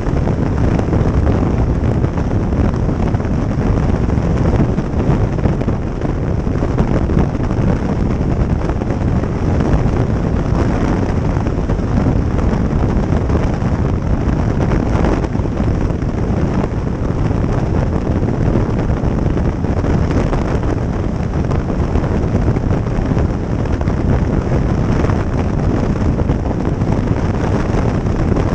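Steady wind rush on the microphone of a motorcycle riding at speed, with engine and road noise mixed in.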